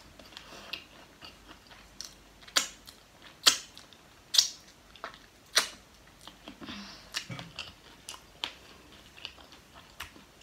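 Close-miked chewing of Lay's potato chips: a run of short, sharp crunches roughly a second apart, the loudest near the middle.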